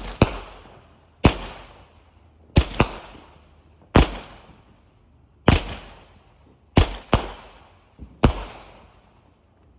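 A multi-shot consumer firework, the 'Woohoo', firing a string of about nine sharp bangs at irregular intervals of roughly a second, each trailing off in a fading crackling hiss.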